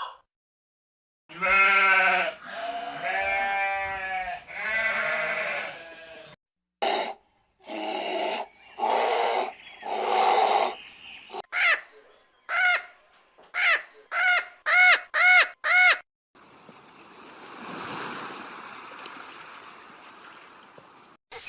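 A string of animal calls: several long bleat-like cries, then a quick run of short rising-and-falling calls, then a soft hiss near the end.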